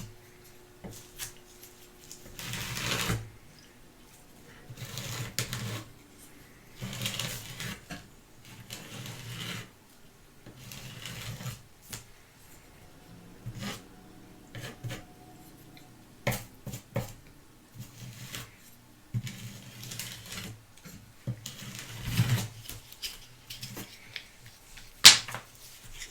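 Close-up hand work: irregular scratchy rubbing strokes and rustles, each a second or so long, with a few sharp clicks, the loudest near the end.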